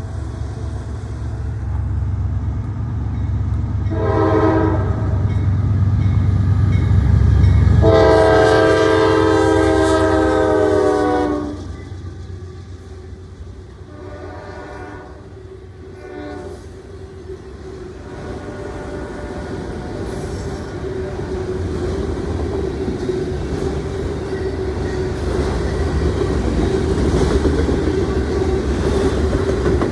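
Norfolk Southern diesel freight locomotive passing with a heavy engine rumble and sounding its horn, a short blast and then a long loud one. The rumble then drops away and the train's cars roll by with a steady hum and a held ringing tone, with fainter horn blasts further off.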